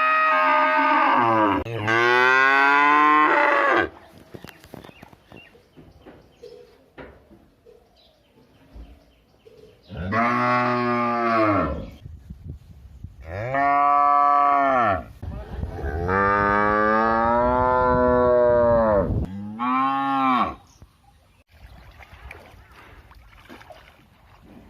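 A cow mooing: about six long moos, each rising and then falling in pitch. Two come close together at the start and four more follow after a pause of about six seconds.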